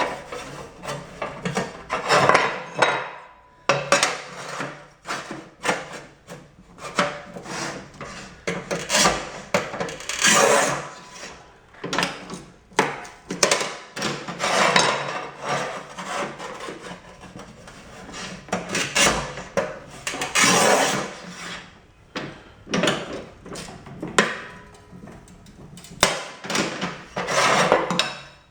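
Rubi TS 50 manual tile snap cutter in use: the scoring wheel rasping across tile in repeated strokes, with many clacks and knocks from the handle and tile pieces in between.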